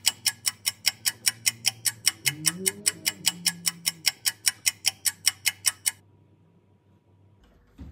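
Clock ticking steadily, about four ticks a second, stopping abruptly about six seconds in. It sounds like a ticking-clock effect marking the wait.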